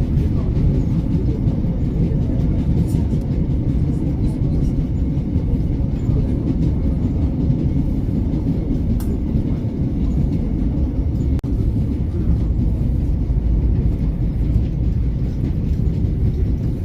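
Train running at speed, heard from inside the carriage: a steady low rumble of wheels and running gear with faint light clicks. The sound briefly cuts out about eleven seconds in.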